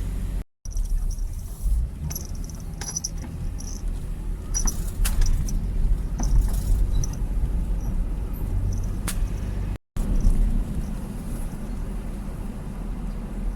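Car driving, heard from inside the cabin: a steady low road and engine rumble with light scattered rattles, breaking off briefly twice at edit cuts.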